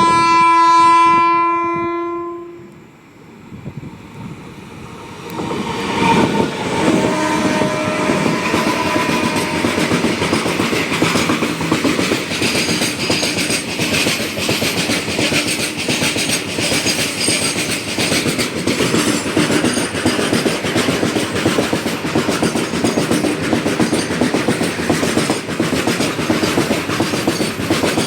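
Electric locomotive horn sounding one long steady blast, ending about two seconds in. After a short lull a train passes, with a continuous clickety-clack of wagon wheels over the rail joints.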